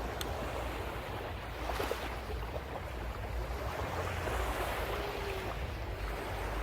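Sea waves washing and breaking steadily, with low wind rumble on the microphone.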